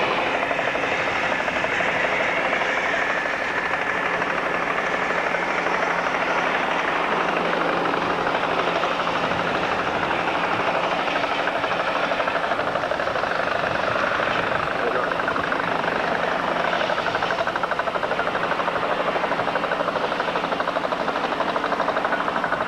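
A steady, engine-like mechanical drone with a fast flutter in it, running on without a break.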